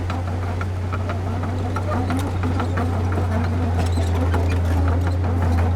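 Heavy construction machine's diesel engine running steadily with a deep drone, with frequent sharp metallic clicks and clanks.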